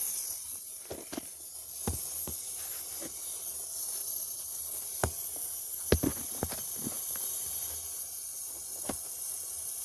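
Welding arc: a steady high hiss broken by irregular sharp crackles and pops.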